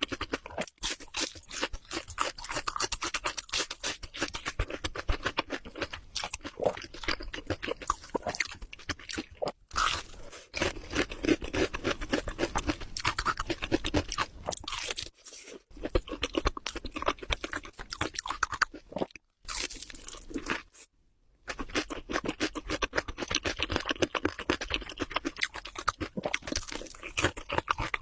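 Close-miked crunchy chewing: a dense run of crackling crunches as food is bitten and chewed, broken by a few short pauses.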